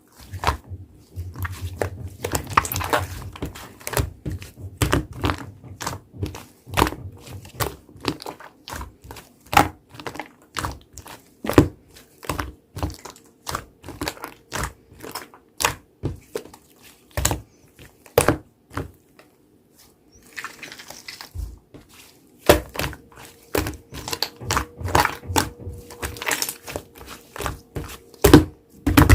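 White clay slime being pressed, stretched and folded by hand, giving irregular sharp clicks and pops, often several a second, with a short pause about two-thirds of the way through.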